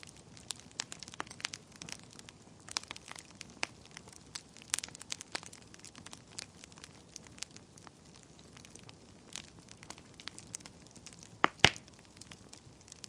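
Wood fire burning in a fireplace, crackling with irregular sharp pops. Two loud pops come close together near the end.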